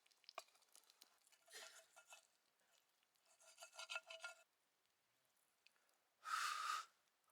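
Near silence broken by three short, faint scraping sounds, the last about six seconds in and the loudest.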